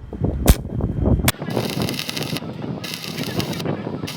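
Two sharp hammer blows on metal, then three long scraping strokes of just under a second each, metal being worked by hand.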